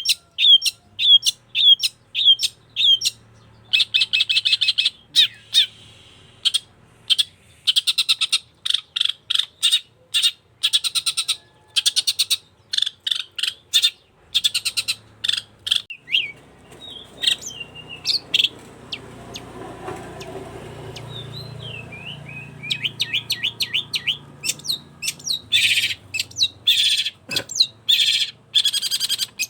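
Long-tailed shrike (cendet) singing energetically: runs of sharp, repeated high chirps and fast rattling trills, thinning to a few scattered notes for several seconds in the middle before the dense chatter resumes.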